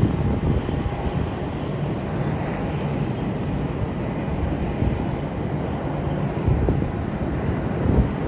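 Steady rumble of a Boeing 787 Dreamliner's jet engines, mixed with wind buffeting the microphone.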